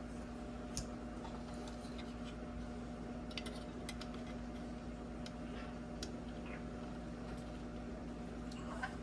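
Faint, scattered small clicks and taps of tools and plastic headlight parts being handled, over a steady low electrical hum.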